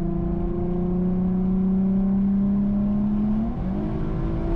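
Infiniti Q50 3.7's VQ37VHR V6 through a custom X-pipe and Flowmaster FX muffler exhaust, accelerating from low revs at about half throttle, its pitch climbing steadily. About three and a half seconds in the pitch drops as the transmission upshifts, then starts climbing again.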